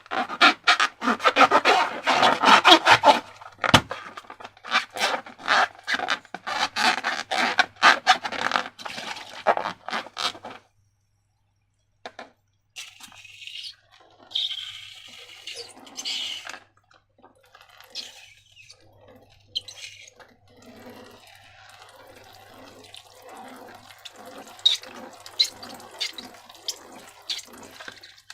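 Slime being squished and worked by hand: dense, wet clicking and crackling for about ten seconds, a short silence, then softer wet squelches with a few sharper clicks near the end.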